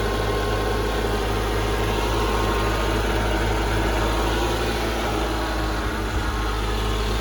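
A 2002 Mercedes-Benz S55 AMG's supercharged 5.4-litre V8 idling steadily during a cold start, the engine still ice cold.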